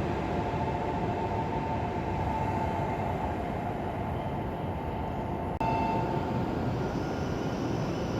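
Train running with a steady rumble and a faint whine. The sound breaks off abruptly about five and a half seconds in and resumes at once.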